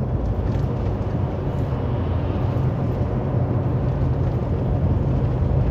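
Steady low drone of a semi-truck's engine and road noise heard from inside the cab while cruising on the highway.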